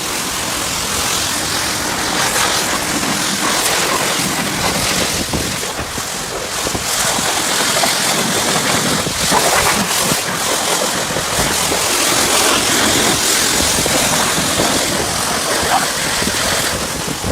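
Self-service car wash high-pressure wand spraying a car, a steady loud hiss of water striking the bodywork that surges and dips slightly as the spray moves.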